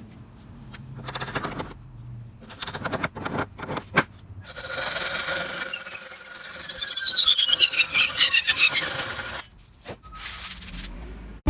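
Woodworking work on wood: a run of short rasping, scraping strokes, then a loud high squeal of several tones that slides steadily down in pitch for about five seconds, followed by quieter rubbing.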